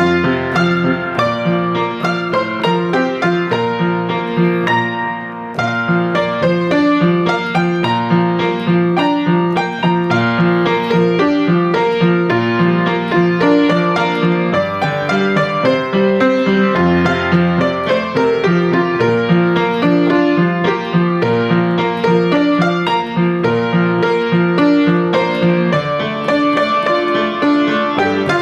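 Piano music: a continuous flow of notes with chords and a moving melody, without pause.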